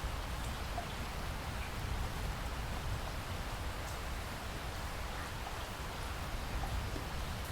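Steady rain falling, with a constant low rumble underneath and a few faint drop ticks scattered through it.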